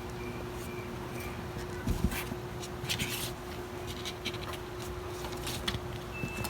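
Light scratching and rustling with a few sharp scrapes, about two, three and five and a half seconds in, over a steady low hum.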